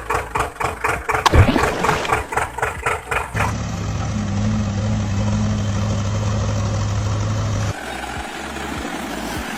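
Engine starting: about three seconds of rhythmic cranking pulses, then the engine settles into a steady idle hum, changing to a rougher, lower chug near the end.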